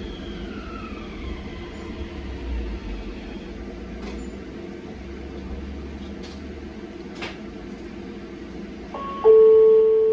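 Tram running with a low steady rumble and the traction motor's whine falling in pitch as it slows, with a few faint ticks. Near the end a loud chime rings out, the tone that comes before the automated next-stop announcement.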